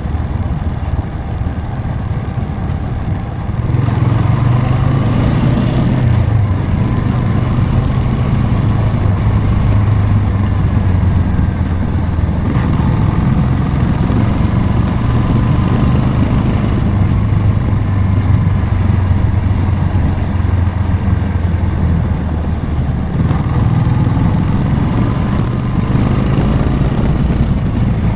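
Motorcycle engine running under way, picking up and pulling harder from about four seconds in, easing briefly near the end before picking up again.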